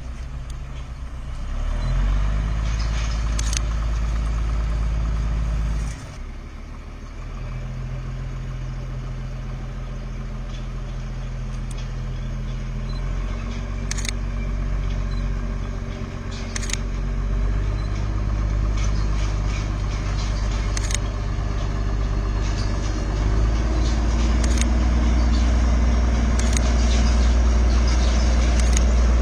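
A vehicle engine running steadily, its pitch and loudness stepping up and down several times, with a few sharp clicks over it.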